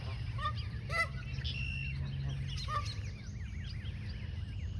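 Geese giving a few short honks in the first three seconds, followed by a flurry of small, high rising peeps from chicks.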